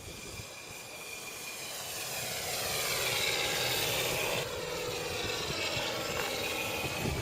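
Quarter-scale radio-controlled Piper Super Cub, its Benedini sound module playing a simulated piston-engine sound, flying past. It grows louder to a peak about four seconds in, then the pitch slides down as it passes and moves away.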